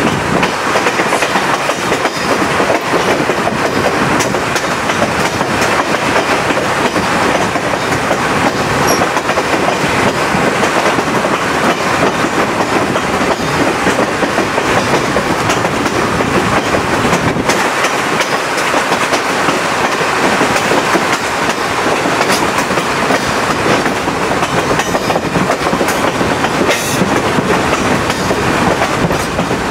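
Chepe passenger train running along the track, heard from a window of the moving train: steady, unbroken wheel-on-rail noise.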